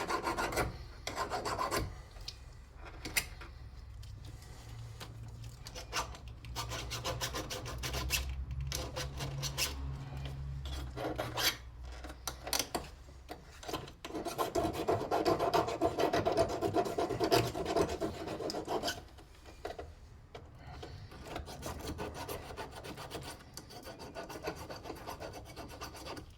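Car battery terminal being scraped clean of white corrosion with rapid back-and-forth rasping strokes, heavier for a stretch past the middle.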